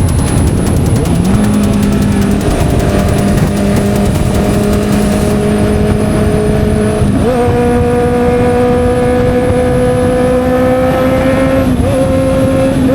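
Honda CB650R inline-four motorcycle engine through an SC-Project aftermarket exhaust while riding. The engine note dips and climbs back right at the start, holds a steady pitch, and steps up in pitch about seven seconds in. It dips briefly once more near the end.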